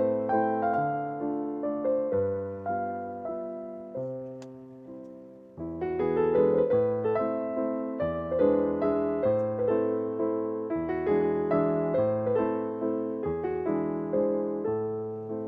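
Background piano music: a gentle piano melody of evenly paced notes, each note struck and then fading, with a short lull about five seconds in before the playing picks up again.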